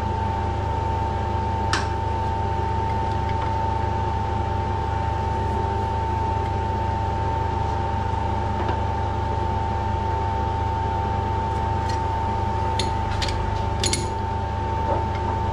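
Steady machine hum with a constant whine, joined by a few light metallic clicks, one about two seconds in and several near the end.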